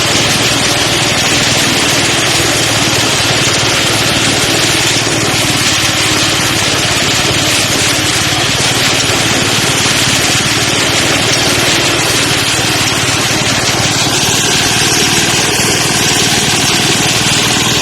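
Engine-driven rice threshing machine running steadily, a dense, even mechanical noise with a low engine hum under it.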